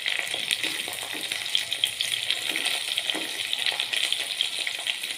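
Sliced shallots and green chillies sizzling in hot oil in a pan, a steady hiss with constant fine crackling.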